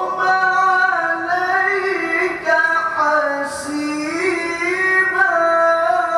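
A single voice reciting the Qur'an in melodic tilawah style, holding long ornamented notes that glide up and down in pitch.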